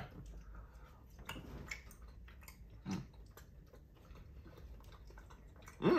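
Faint chewing of a strip of caramelized carrot, with scattered small clicks and taps of handling food.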